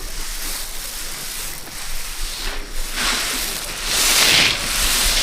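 Repeated swishing, rubbing strokes of dry material, getting louder about three seconds in.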